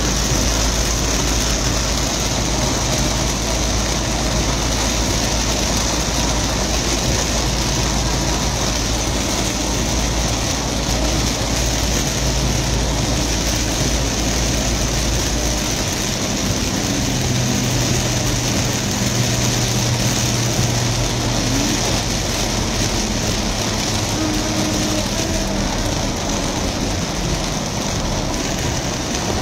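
Very heavy rain drumming steadily on a car's roof and windshield, heard from inside the cabin, with the car's engine running underneath; the low engine note changes about halfway through.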